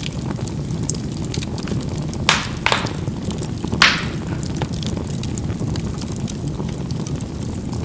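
Charcoal burning in a fireplace: a steady low rumble of the fire with small crackles, and three sharper pops of charcoal bursting between about two and four seconds in.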